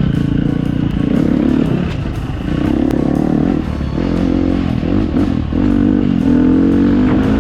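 Dirt bike engine pulling along a trail, its pitch climbing under throttle several times and dropping back between the climbs, as with gear shifts or throttle changes. The longest climb comes near the end, followed by a drop.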